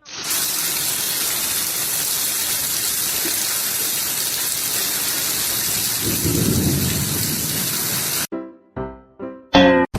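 A loud, steady hiss that cuts off abruptly after about eight seconds, followed by a few short pitched sounds near the end.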